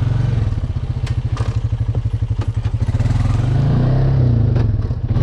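Small off-road vehicle engine running at low revs with a steady putter, then revving up about three seconds in as it takes another run at the mud, and easing off near the end. A few knocks and rattles from the machine over rough ground.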